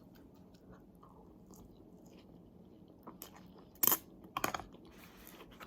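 A person chewing food close to the microphone, with a few sharp, crisp crunching bites about three to four and a half seconds in.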